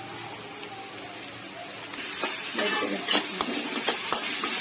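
Chopped vegetables stir-frying in a pan: sizzling, with a spatula scraping and clicking against the pan. The sizzle and the clicks get louder about two seconds in.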